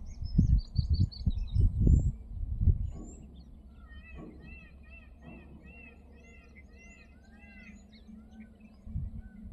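Wild birds chirping: a quick series of high chirps, then from about four seconds in a rapid run of short arching notes repeated over several seconds. Low, gusty rumbling covers the first three seconds.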